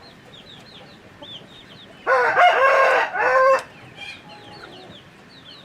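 A rooster crows once, a loud cock-a-doodle-doo of about a second and a half, about two seconds in. Short, high, falling chirps repeat throughout.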